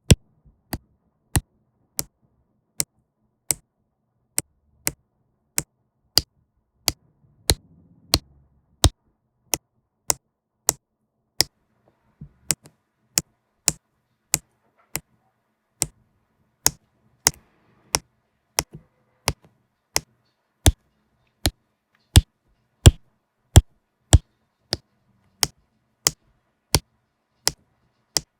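Sharp clicks from diamond-painting drills being pressed onto the sticker canvas with a drill pen, about one every 0.7 seconds, some louder than others.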